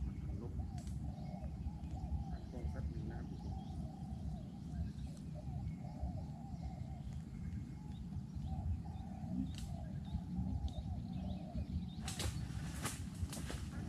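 Spotted doves cooing, a wavering low call repeated through most of the stretch over a steady low rumble. Sharp rustling clicks come near the end.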